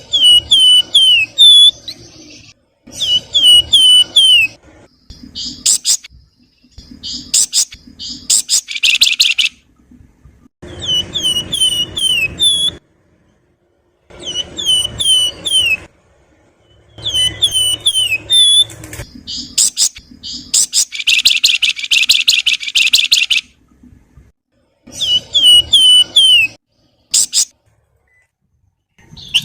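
A flamboyan (wergan Jawa) songbird singing in separate phrases: runs of four or five quick, falling, flute-like whistles alternate with fast, buzzy chattering trills, with short pauses between phrases.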